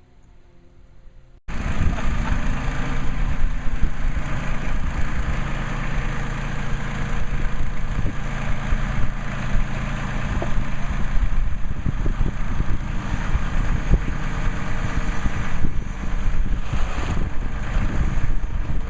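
A motor vehicle's engine running steadily, coming in abruptly about a second and a half in after a quiet moment.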